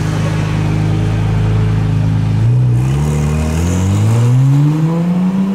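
Second-generation Honda NSX's twin-turbo V6 running at a steady pitch, then, about two and a half seconds in, rising steadily in pitch as the car accelerates away.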